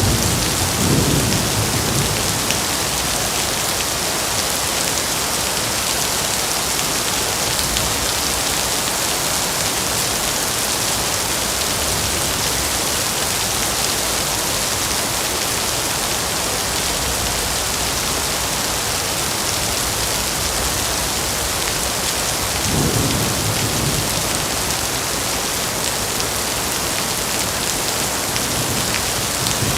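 Heavy rain falling steadily, a dense even hiss. Two brief low swells in level come through, one at the very start and one about three-quarters of the way in.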